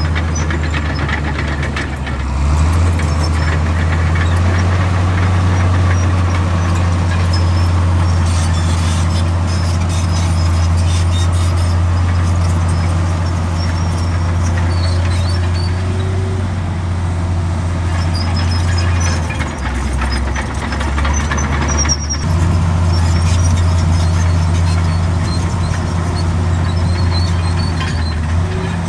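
Heavy diesel earthmoving machinery running steadily under a deep engine hum. The note shifts about two seconds in and dips briefly around twenty seconds in, with faint high squeaks scattered through.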